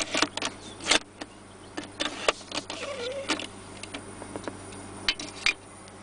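Irregular plastic clicks and knocks from the cup holder and centre console being handled and items moved around, over the faint steady hum of the idling V8.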